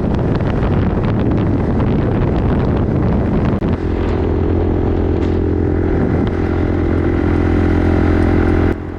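Sport ATV engine running under way, rough and varying at first, then holding a steady speed from about four seconds in.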